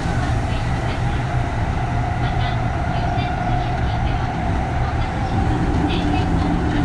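Interior running noise of a Kintetsu 3200-series electric train car, with the steady whine of its early Mitsubishi GTO VVVF inverter and traction motors over the rumble of wheels on track. A second, lower tone joins about five seconds in as the sound grows slightly louder.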